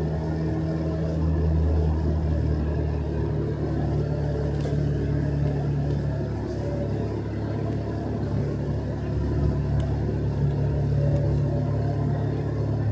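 Motorcycle engine running steadily under way, a low hum whose pitch shifts slightly with the throttle, over road noise.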